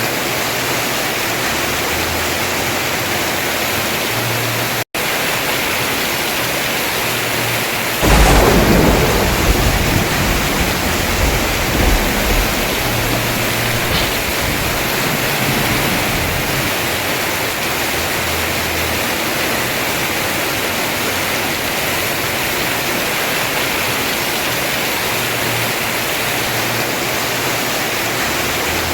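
Heavy rain falling steadily on a house roof. About eight seconds in, a thunderclap breaks suddenly and rumbles for several seconds before fading back under the rain.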